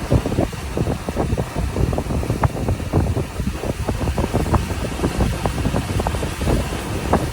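Sea waves crashing on the shore: a continuous heavy low rumble thick with short crackles, never letting up.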